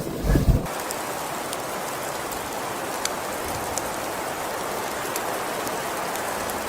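Steady hiss of precipitation falling and pattering on surfaces, with faint scattered ticks, after a brief low rumble in the first second.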